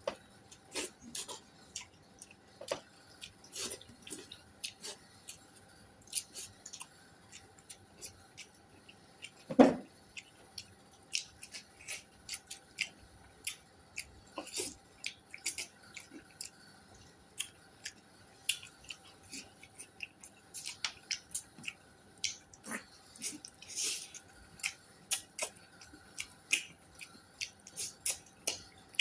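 Close-up eating sounds: wet chewing and mouth smacks with many small clicks, and one louder knock about ten seconds in.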